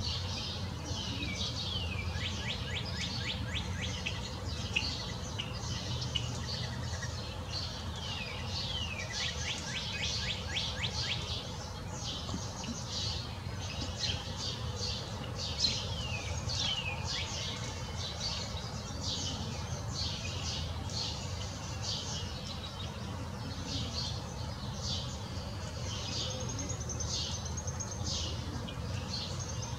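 Wild birds chirping: many quick high notes sweeping downward, some run together into fast trills, over a steady low rumble.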